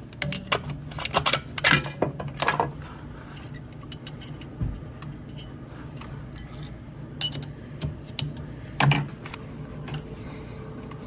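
Metal clinks and clicks from tools and parts being handled during repair work on a refrigerator's relay and condenser fan area, several in quick succession at first and a few scattered later, over a steady low hum.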